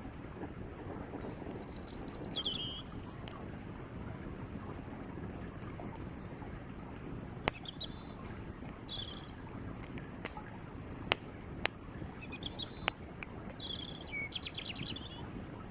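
Wood fire crackling, with a few sharp pops spread through the second half, over the steady rush of a flowing creek. Small birds chirp in short phrases several times.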